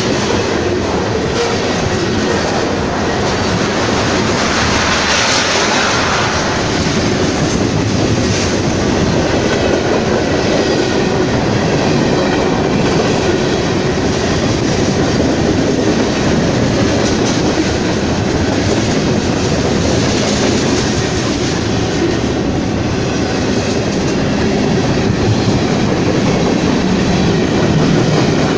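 A train's railcars rolling past, a steady loud rumble of wheels on the rails.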